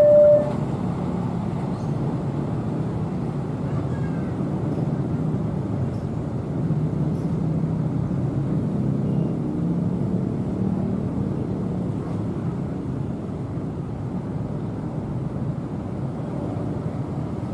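Train rumbling steadily, its locomotive horn's last note cutting off just at the start; the rumble eases slightly near the end.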